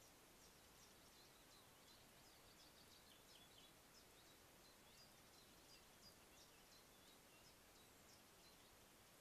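Faint birdsong: many short, high chirps and trills from small birds, over the steady hiss of a wildlife camera's microphone.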